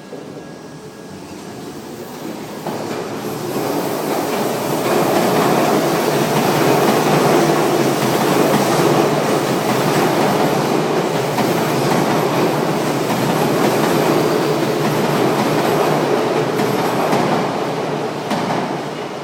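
Odakyu Odawara Line train passing over a level crossing, its wheels clattering on the rails. The sound swells over the first few seconds, stays loud for about twelve seconds, then fades near the end.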